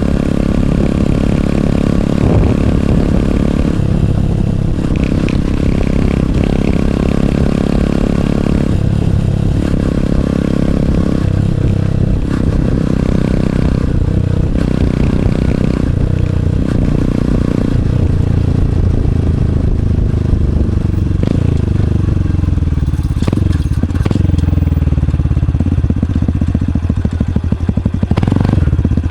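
Honda CT125 Hunter Cub's single-cylinder engine exhaling through a Minimoto SP Classic aftermarket muffler with its baffle removed, heard right beside the muffler while riding. The revs climb and dip briefly every couple of seconds, then fall steadily in pitch over the last several seconds as the bike slows.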